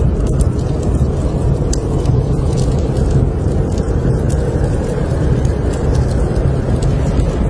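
Steady low rumble of blizzard wind around a cabin, with the light, scattered crackle of a wood fire in a fireplace.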